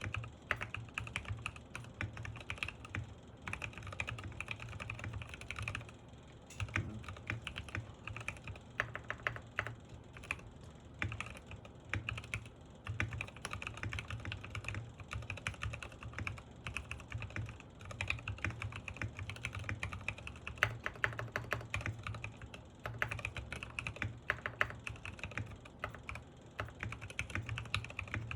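Typing on a Sky87 mechanical keyboard with Gateron Pro Milky Yellow switches: fast, continuous keystrokes in runs with brief pauses.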